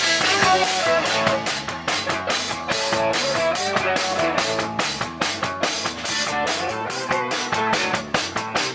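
Live rock band playing an instrumental stretch, with the drum kit keeping a steady beat under guitar and the rest of the band.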